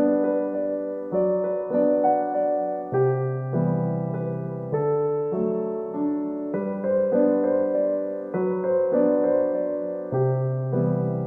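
Background music: a slow, gentle solo piano piece, notes struck and left to fade, with the chords changing about once a second.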